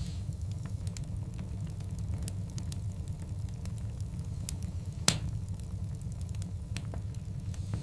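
Wood fire of large burning logs crackling, with scattered sharp pops over a steady low rumble of the flames and one louder pop about five seconds in.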